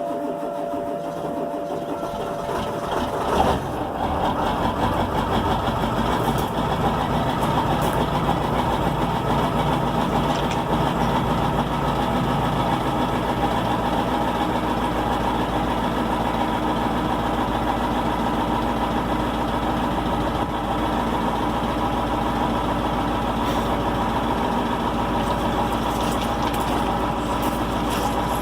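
Ford F-250's 7.3 L Power Stroke V8 turbo-diesel on a cold start: it cranks for about three and a half seconds, catches, and settles into a steady idle.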